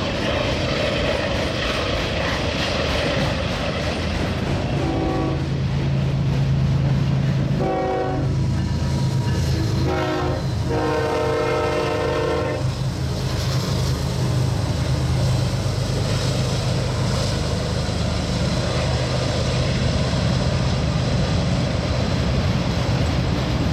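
Union Pacific autorack freight cars rolling past with steady wheel-on-rail noise and clatter, over a low steady drone. About five seconds in, the distant locomotive's horn sounds four blasts, the last the longest.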